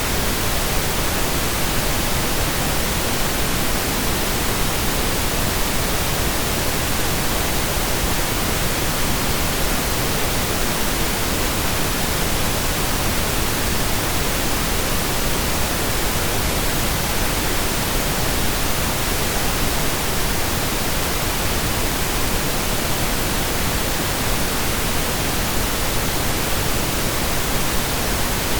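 Synthesized pink noise: a steady, even hiss that spreads across all pitches without any change.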